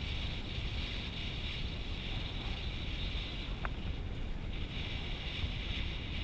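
Steady wind rush and low rumble on an action camera's microphone, as when moving fast outdoors, with a brief short chirp about three and a half seconds in.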